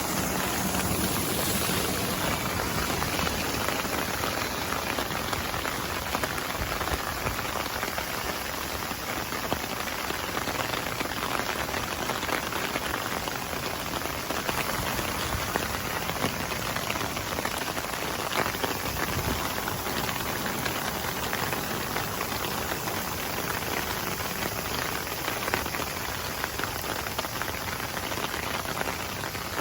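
Steady rain falling on surfaces, a dense, even patter of drops.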